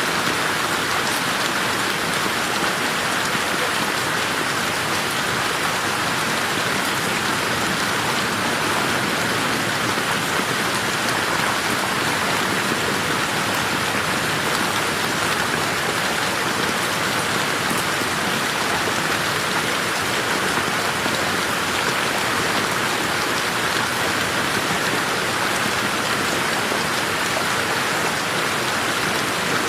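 Steady rain falling on a garden, a constant dense patter of drops with no let-up or thunder.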